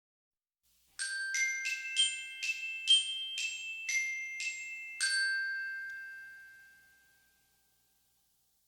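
A short glockenspiel-like chime melody of about ten quick bright notes, ending on a note that rings out and fades away.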